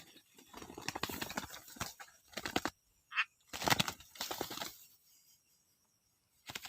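Bursts of rustling and flapping, with one short high call about three seconds in and a single click near the end.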